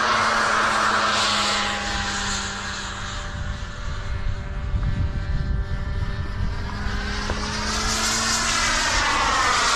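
Radio-controlled airplanes' motors and propellers whining as they fly past, their pitch sweeping up and down with each pass. Wind rumbles on the microphone around the middle.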